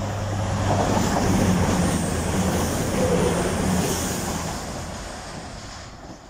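Class 222 Meridian diesel multiple unit running through the station at speed without stopping: a rush of wheels on rail and air with a steady low diesel engine hum. It is loudest a second or so in and fades steadily as the train draws away.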